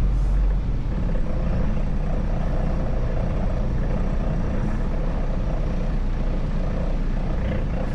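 Semi truck's diesel engine running, a steady low drone.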